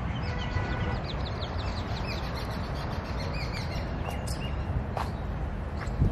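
Small birds chirping repeatedly in quick, short falling notes, over a steady low rumble of outdoor background noise. A few sharp clicks come through, and a thump near the end is the loudest sound.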